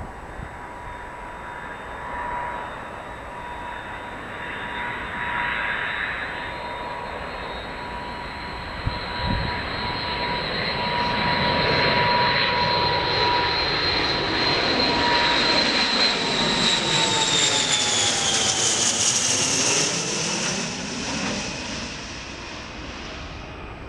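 Airliner on landing approach passing overhead: a rush of engine noise with a steady high whine that builds, peaks and then drops in pitch as the aircraft goes by, fading near the end.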